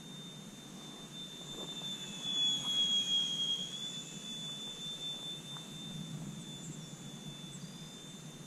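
Electric RC airplane in flight: the high, steady whine of its Turnigy 2730 brushless motor and small GWS propeller, swelling louder and dipping slightly in pitch around the third second before settling back.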